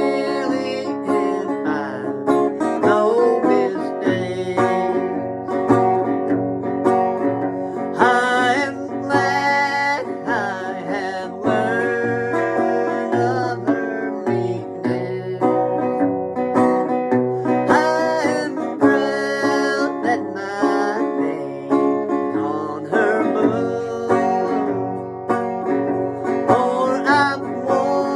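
Country gospel music with plucked guitar and banjo, some notes bent.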